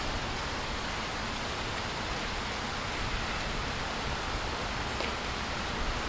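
Steady hiss of rain, with a low wind rumble on the microphone.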